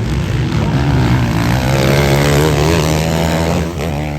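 Motocross bike engines running hard on the track, their pitch wavering up and down as the riders work the throttle, fading a little near the end.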